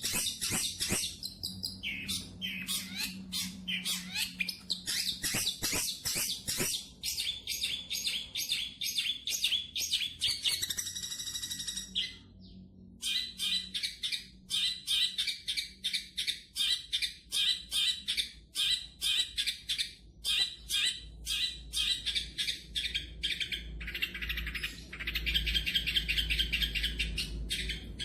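Long-tailed shrike (cendet) singing a rapid, continuous chattering song of short repeated notes, with a brief pause about halfway through. A low rumble sits underneath near the end.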